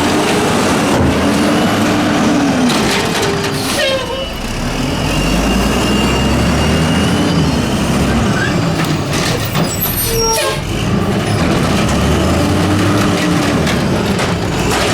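Mack LE garbage truck with an Amrep automated side-loader body working a collection route: its diesel engine rises and falls in pitch three times, with a sharp noise about four seconds in and again about ten seconds in.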